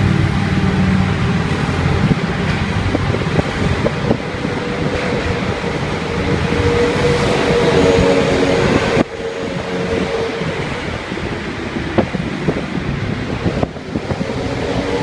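Steady vehicle noise, a dense rumble with a held hum, that drops off suddenly for a moment about nine seconds in and again near the end.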